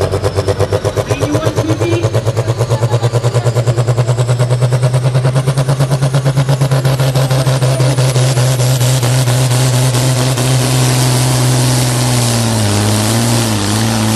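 Modified pulling tractor's engine running loud, with a fast, even pulsing beat that smooths into a steady drone about halfway through, and a high whine rising over the first eight seconds.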